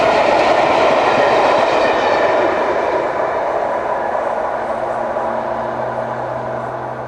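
A train running past, loud at first, then fading steadily as it moves away from about two and a half seconds in, with a low steady hum under the fading noise near the end.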